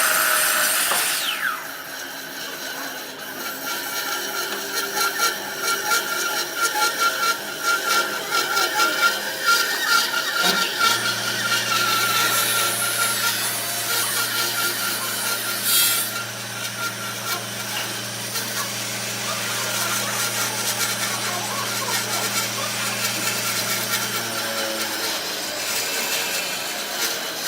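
Wood lathe running with a turning tool cutting into the spinning wood, a continuous rapid scraping over a steady high tone. A steady low hum joins for about the middle half.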